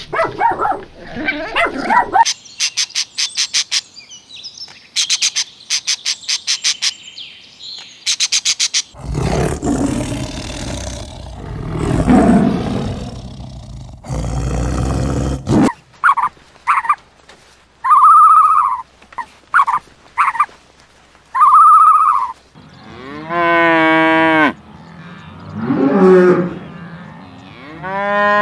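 A string of animal calls. Dogs bark for about the first two seconds, then comes several seconds of fast high chattering. A tiger gives a long, deep, rough roar in the middle, and near the end a cow moos in rising and falling calls.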